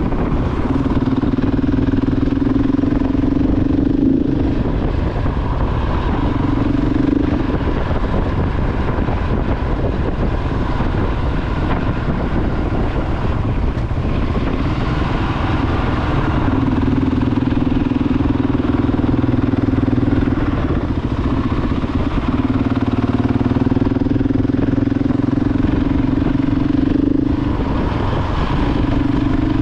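KTM 690 Enduro R's single-cylinder engine running at steady road speed, under a constant rush of wind and road noise. Its steady drone fades for stretches of a few seconds and returns, as engine speed and throttle change.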